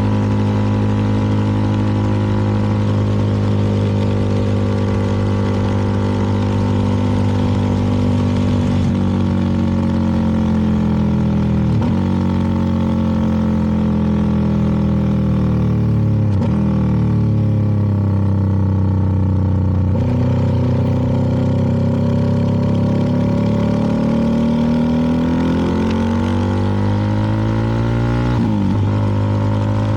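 CFMoto 300NK's single-cylinder engine running under way, its pitch rising and falling with the throttle and dipping sharply three times as gears are changed, over wind and road noise.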